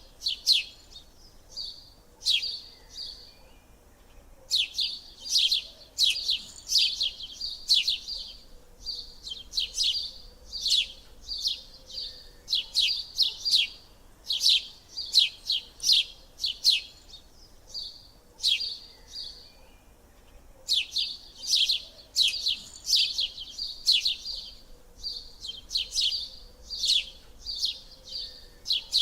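Small birds chirping in quick runs of sharp, high-pitched falling chirps, with short pauses between the runs.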